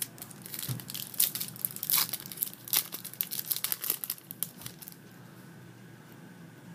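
Foil booster pack wrapper crinkling and being torn open, a dense run of sharp crackles that stops about five seconds in.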